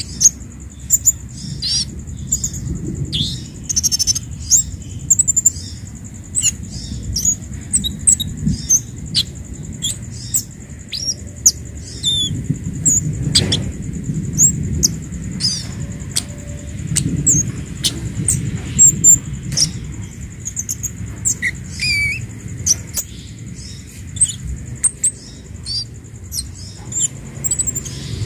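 Scarlet-headed flowerpecker (kemade) calling: a quick scatter of thin, very high chips and short downslurred ticks, over a low steady rumble.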